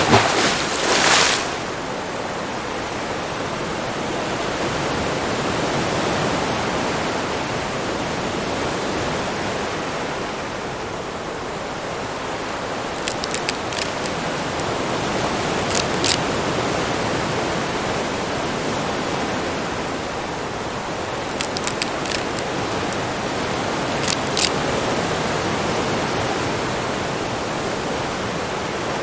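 Steady rushing water noise, with a few short clusters of sharp clicks in the second half.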